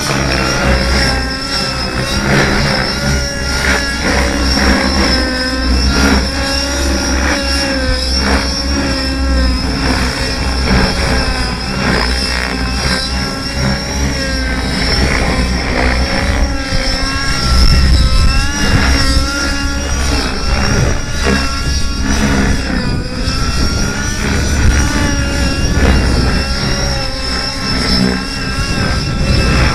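Fuel-burning engine of a radio-controlled model helicopter running hard in flight, its pitch rising and falling over and over as the throttle changes, over a steady high whine.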